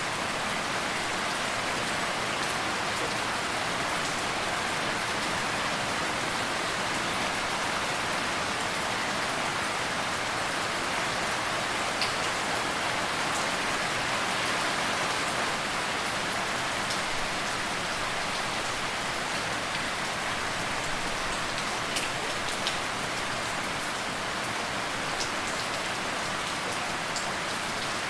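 Steady rain falling on a surface, an even hiss with scattered sharper ticks of single drops.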